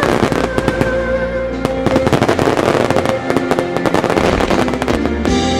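Fireworks show set to music: a song plays over loudspeakers while many shells burst and crackle, a dense run of sharp pops and bangs.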